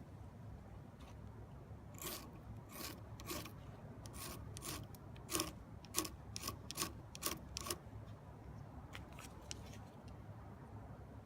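A ferrocerium fire-starter rod being struck again and again to throw sparks onto tinder: about a dozen short, sharp rasping scrapes, roughly two a second, then a few fainter ones.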